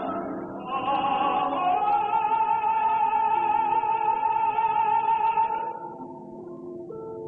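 Operatic singing with orchestral accompaniment: a voice rises to a long held high note with vibrato, then gives way to quieter accompaniment near the end.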